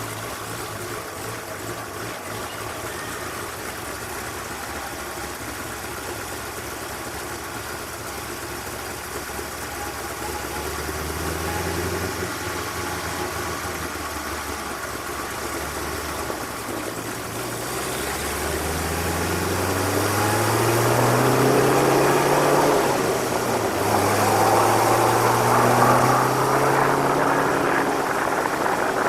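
Drag-racing car engines idling steadily, then revving up in a series of rising sweeps in pitch that grow louder over the last ten seconds.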